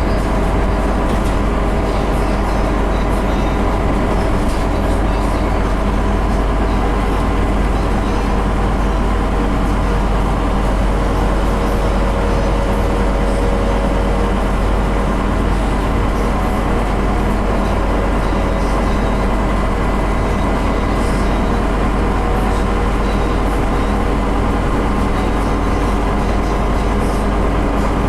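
Scania CN270UB city bus heard from inside the passenger cabin while driving: steady engine drone and road noise, with scattered light rattles.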